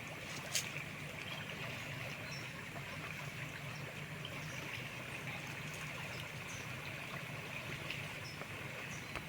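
Running river water, an even rushing noise with a steady low hum underneath and a few faint clicks.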